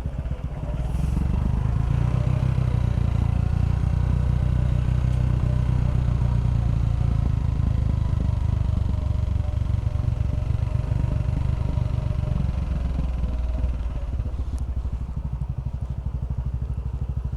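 Small Chinese single-cylinder motorcycle engine running while riding down a steep slope. The engine note picks up about a second in, holds steady, and eases off near the end.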